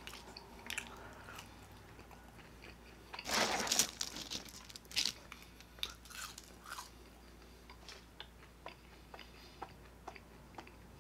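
Close-miked chewing of a mouthful of French fries, with a louder crunching stretch about three seconds in, then quieter chewing with small wet mouth clicks.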